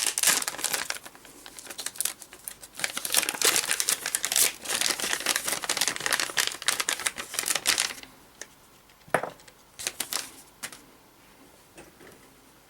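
Plastic packaging crinkling and rustling as the new replacement diodes are unwrapped, for about eight seconds, followed by a few light clicks.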